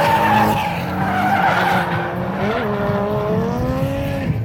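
Drift cars sliding at full throttle: engines revving hard, their pitch wavering and climbing in the second half before falling off near the end, over the steady hiss of spinning, skidding tires.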